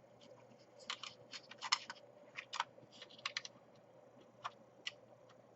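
Small plastic parts of a laptop being handled and pressed back into place during reassembly: a run of irregular light clicks and taps, thinning out toward the end, over a faint steady hum.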